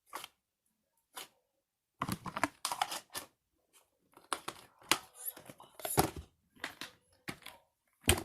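Things being handled: a string of short rustles and clicks, irregular and coming thicker after a couple of seconds.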